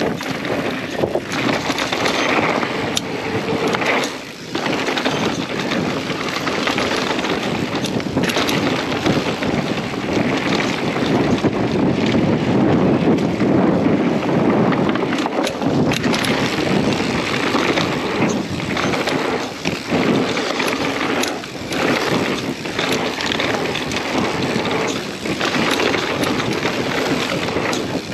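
Mountain bike riding down a dirt trail: tyres rolling over dirt, with frequent knocks and rattles over bumps, and wind buffeting the microphone.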